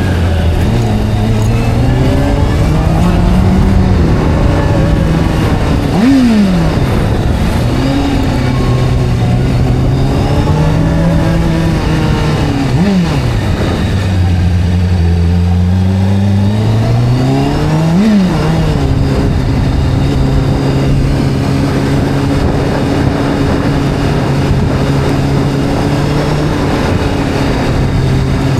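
Sport-bike engine rising and falling in pitch as it accelerates and eases off, with three sharp rev spikes that drop straight back. After that it settles into a steady cruising note.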